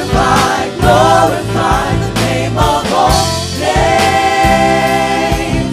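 Live worship song: singers with band accompaniment, their voices wavering through a phrase and then holding one long note near the end.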